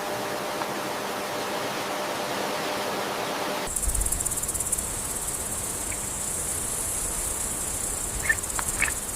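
A steady hiss cuts off abruptly a little over a third of the way in, giving way to a continuous high-pitched insect trill, like crickets. A few short chirps come near the end.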